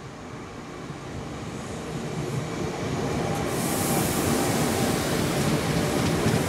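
Trenitalia Minuetto regional multiple unit approaching and running past close by. Its wheel and rail rumble grows steadily louder, and a hiss of rail noise comes in about halfway through as the cars go by.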